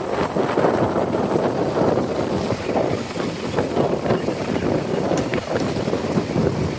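Wind buffeting the microphone on a moving motorcycle, a steady rush with motorcycle and traffic noise underneath.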